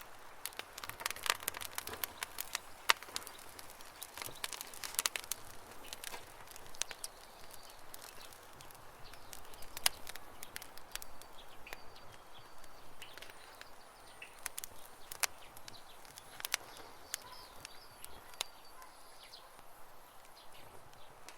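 Campfire crackling with irregular sharp pops, thickest in the first few seconds, while birds chirp faintly in the background.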